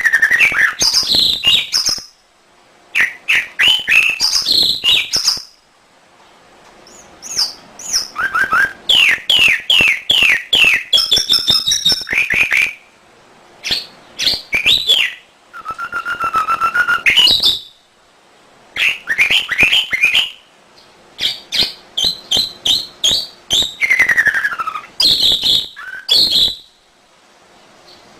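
Canary singing: phrases of rapid whistled notes, trills and rising and falling sweeps, each a few seconds long, with short pauses between them.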